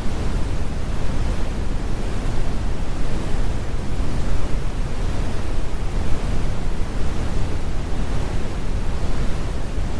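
Steady brown noise: an even, deep rumbling hiss, strongest in the bass and falling away in the highs, unchanging throughout.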